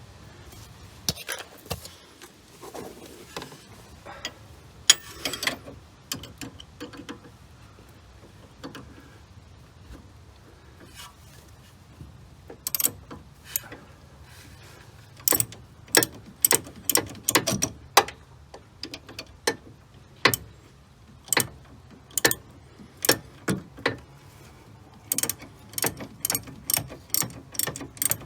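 Hand ratchet wrench clicking as it is worked back and forth on a sway bar end-link nut. A few scattered knocks come first, then a steady run of sharp clicks that quickens near the end.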